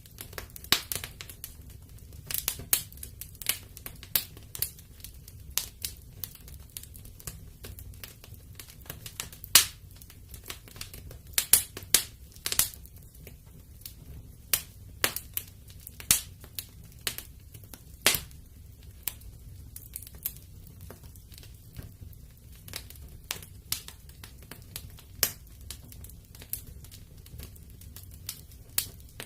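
Wood fire burning in a fireplace: irregular sharp crackles and pops, several a second with a few louder snaps, over a low steady rumble of the flames.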